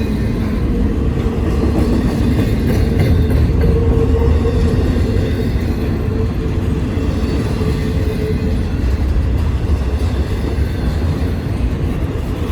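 Intermodal freight train rolling past close by: a loud, steady rumble of the cars on the rails, with a faint hum that fades out about halfway through.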